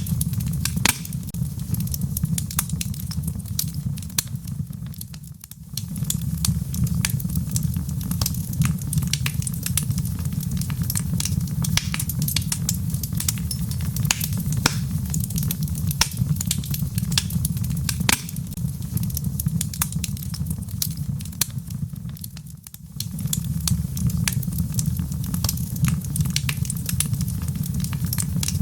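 Wood fire burning in a fireplace: a steady low rumble of the flames with a constant run of sharp crackles and pops from the burning logs, dipping briefly twice.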